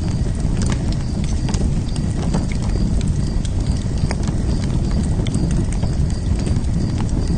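Wood fire crackling: irregular sharp pops and snaps over a steady low rushing noise of the burning fire.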